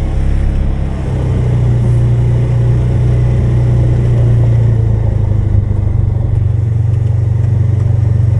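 Polaris 570's engine running steadily under load while plowing snow, its drone picking up slightly about a second in.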